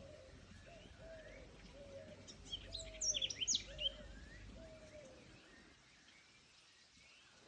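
Forest birdsong: a songbird gives a quick burst of high, sharp chirps about two to four seconds in, the loudest sound. Beneath it runs a string of short, low falling calls repeated roughly every half second, which stop about five seconds in.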